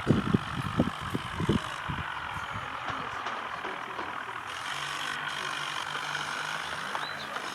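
Swaraj tractor's diesel engine running with a steady low hum that comes through more clearly about three seconds in. A few low thumps sound in the first second and a half.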